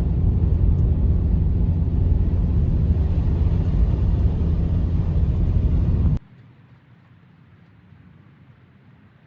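Steady, loud low rumble that cuts off abruptly about six seconds in, leaving a faint hiss.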